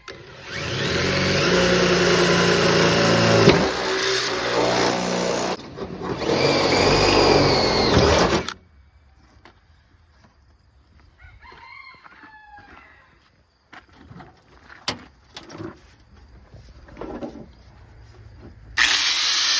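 Electric drill boring a bolt hole through the tailgate hinge metal in three long runs, the bit whining and squealing as it cuts. This is followed by quieter clicks and handling, and the drill starts up again near the end.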